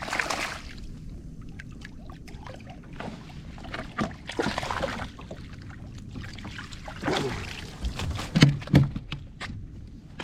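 Water splashing and sloshing around a fishing kayak, in several short bursts, with a few sharp knocks on the hull near the end.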